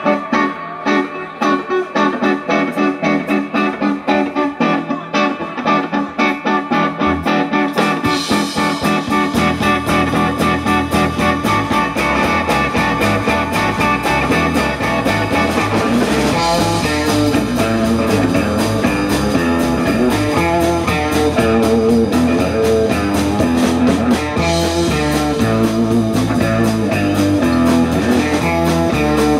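Live blues band playing an instrumental passage: electric guitar alone at first, then bass and drums come in about eight seconds in and the full band plays on.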